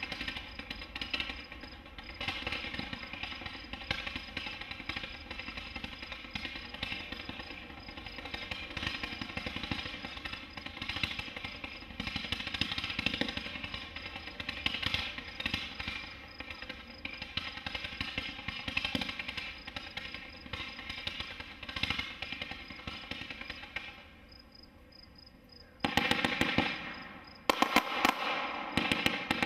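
Consumer firework going off with a steady stream of rapid crackling pops. The crackle drops off briefly, then comes back louder and sharper about 26 seconds in.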